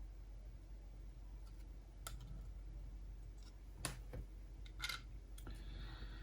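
Faint, irregular clicks and taps of small brittle plastic parts of a Sony MZ-RH1 MiniDisc recorder's casing being handled and fitted, with a few sharper clicks.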